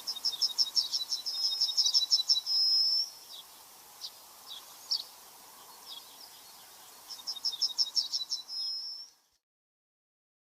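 A songbird singing: a rapid trill of about eight high notes a second ending in a short held note, given twice, with single high chips between, over a steady outdoor hiss. The sound cuts out abruptly about nine seconds in.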